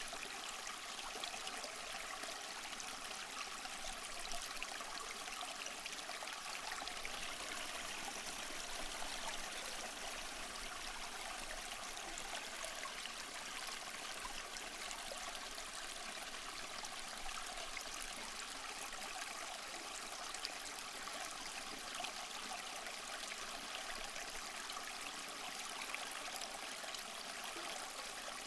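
Small waterfall over mossy rocks, water splashing and trickling in a steady, unbroken rush.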